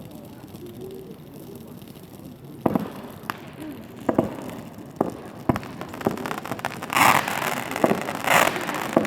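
Fireworks going off: a few quiet seconds, then single sharp bangs of shells bursting, a second or so apart. Near the end come loud bursts of dense crackling.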